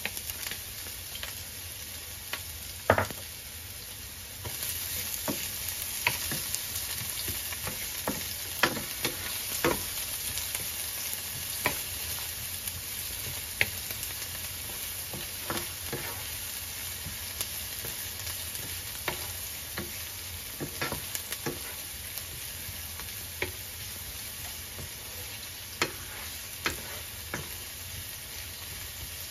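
Chopped onions and garlic sizzling in hot oil in a nonstick frying pan, stirred with a wooden spatula that scrapes and knocks against the pan at irregular moments. The loudest knock comes about three seconds in.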